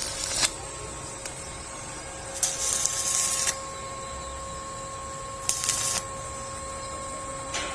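Stick (arc) welder crackling and hissing in short bursts, about three strikes of half a second to a second each, as the gate hinges are tack-welded back on. A steady faint whine runs underneath.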